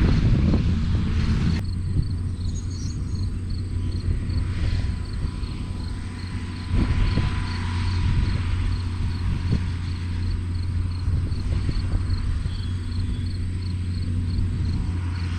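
Farm tractor engine running steadily with a low hum, with a few faint knocks. A high insect chirp repeats about three times a second.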